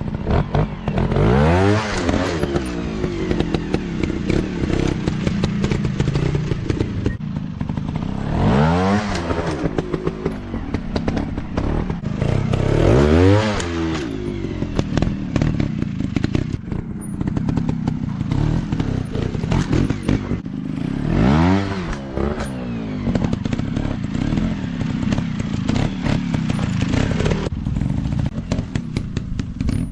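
Dirt bike engine revving hard in surges, its pitch climbing and dropping about four times, with clattering and knocks from the bike.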